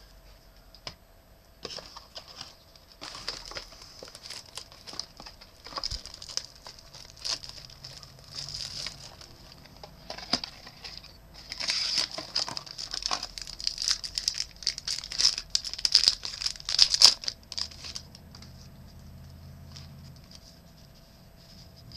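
Trading-card pack wrapper crinkling and tearing, with cards rustling and clicking as they are handled. It is loudest in the middle stretch and stops a few seconds before the end.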